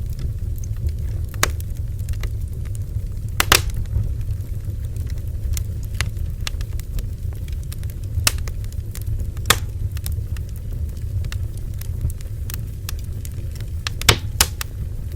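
Bonfire burning: a steady low rumble under scattered sharp crackles and pops of burning wood, the loudest pops about three and a half seconds in and near the end.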